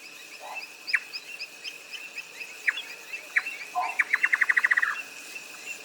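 Birds calling: a few sharp single chirps, then a fast run of about a dozen notes lasting about a second, with fainter high chirps repeating over a steady high-pitched tone.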